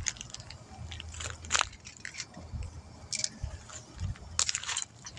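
Scattered metal clicks and clinks from lug nuts and hand tools being handled while a wheel is remounted, over a faint low hum.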